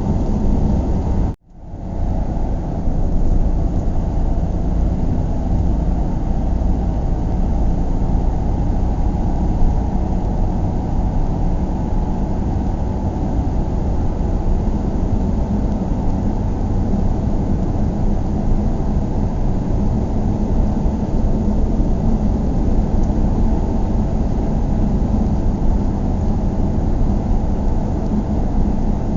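Steady low rumble of a car driving, heard inside the cabin: road and engine noise. It cuts out suddenly about a second and a half in, then comes back up within half a second and carries on unchanged.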